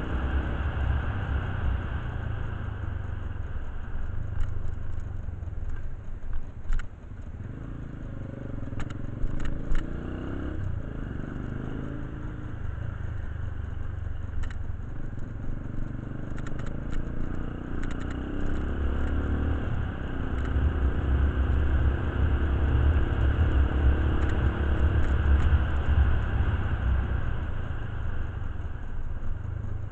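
Motorcycle engine running with a steady low rumble that grows louder in the last third, with scattered small clicks and clatter over it.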